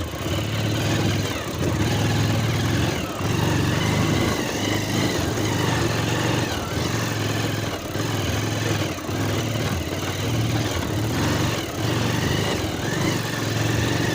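Motorcycle engine running at low revs, the throttle repeatedly opened and eased off as the bike picks its way over a rough, slippery dirt trail.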